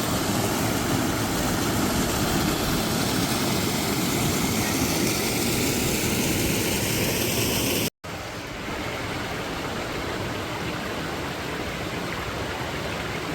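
Steady rushing of a waterfall and fast stream. About eight seconds in it cuts abruptly to a slightly quieter, duller rush of water.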